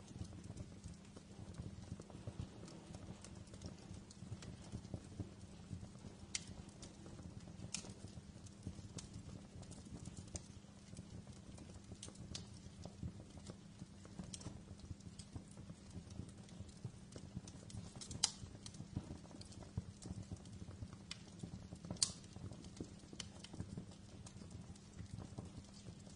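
Wood fire crackling in a fireplace: a dense run of small ticks and crackles over a steady low rumble, with a few sharper pops, the loudest two about two-thirds of the way through.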